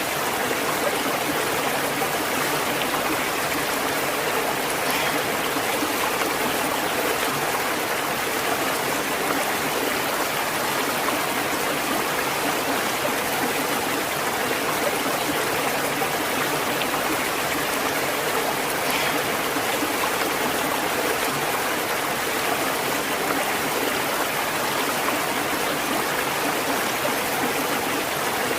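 Water of a stream flowing steadily: an even, unbroken rushing with no breaks or changes.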